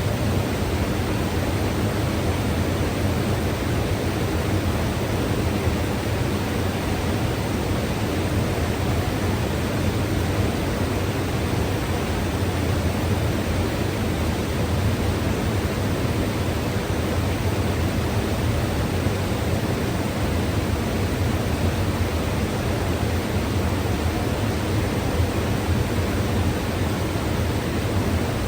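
Mountain river rushing steadily, an even wash of flowing water with no breaks.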